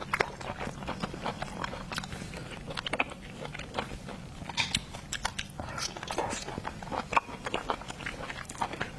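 Close-miked chewing and biting of razor clam meat, with many wet smacks and small clicks from the mouth.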